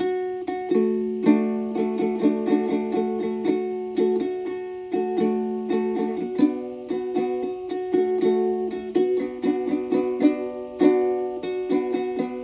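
Plucked string instrument, ukulele-like, playing a steady fingerpicked pattern of repeating notes, each struck sharply and ringing out.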